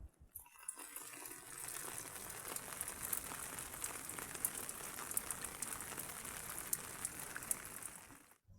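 Heavy rain falling: a steady hiss with many sharp ticks of drops striking. It begins about half a second in and stops abruptly near the end.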